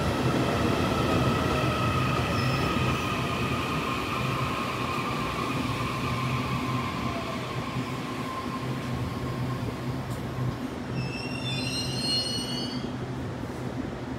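A Taiwan Railways train running alongside the platform with a steady low hum and a whine that falls slowly in pitch as it slows. Brief high wavering squeals come about eleven to thirteen seconds in.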